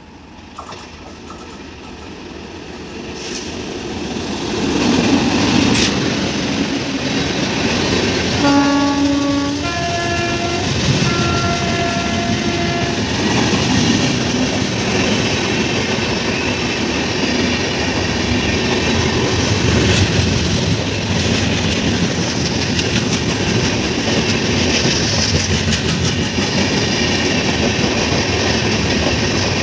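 Indian express train hauled by an electric locomotive approaching and passing at speed: the rumble builds over the first few seconds, the locomotive horn gives a short blast about eight seconds in and then a longer one, and the coaches' wheels rumble and clatter steadily past.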